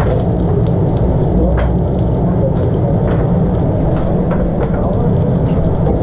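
Food frying in a food truck kitchen: sizzling with scattered crackles over a steady low drone.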